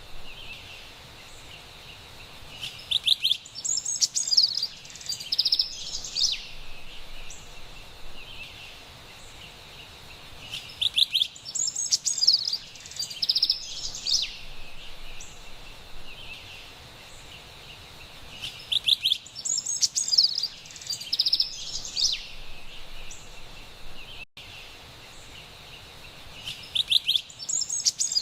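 Carolina wren singing: a loud, fast phrase of rapidly repeated notes lasting a few seconds, heard four times about eight seconds apart, over a steady background hiss of forest ambience.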